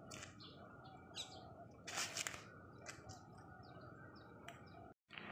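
Small birds chirping, with short high chirps scattered throughout over faint outdoor background noise. Two brief swishes, about one and two seconds in, are the loudest moments and come from the karate practitioner's movements.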